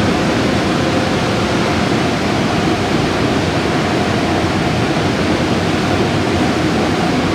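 Automatic car wash running: a steady, loud rushing noise with a faint machine hum.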